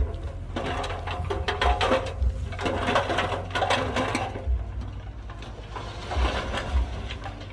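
Heavy earthmoving machinery at work: a steady low diesel engine drone under irregular metallic clanking and rattling that comes in bursts.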